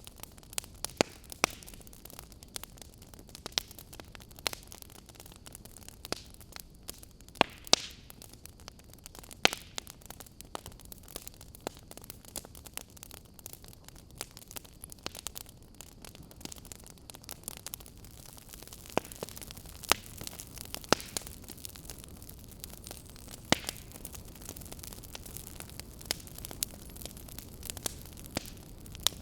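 Wood fire crackling in a fireplace: irregular sharp pops and snaps, a few of them loud, over a steady soft hiss.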